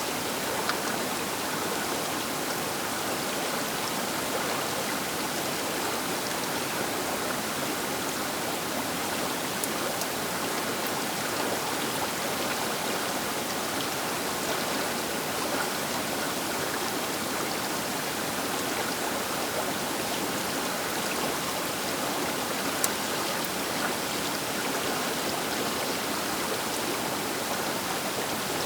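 The Baker River rushing past its bank, as a steady, even sound of flowing water. A couple of faint single ticks stand out briefly, about a second in and again near the end.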